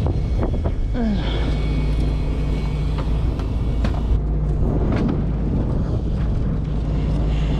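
A fishing boat's engine running steadily, with wind buffeting the microphone and a few scattered knocks.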